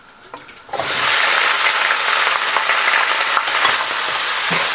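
Raw chicken pieces hitting hot oil and garlic in a frying pan: a sudden loud sizzle starts about a second in and carries on steadily as the pieces are stirred with a spatula.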